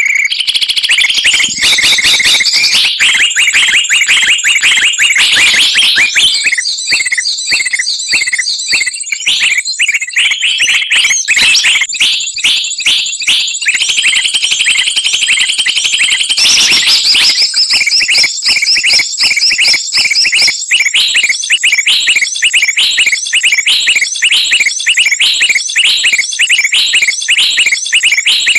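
A lure recording of many small songbirds calling at once: loud, overlapping rapid high-pitched chirps, twitters and trills with no pause. This is a bird-trapping call track (suara pikat) meant to draw wild birds down.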